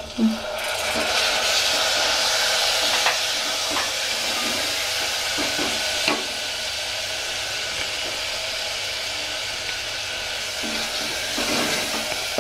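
Chopped tomatoes dropped into hot oil with sautéed onions in a pressure cooker, starting suddenly and then sizzling loudly and steadily. A spatula stirs and scrapes in the pot, with a few short knocks against the metal.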